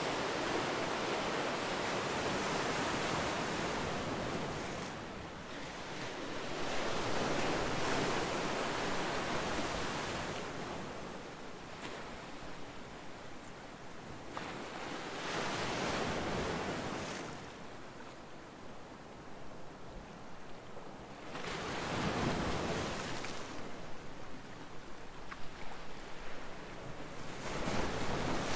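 Ocean waves breaking on a shore, each surge swelling and washing back about every five or six seconds, with fizzing between the breaks and some wind noise on the microphone.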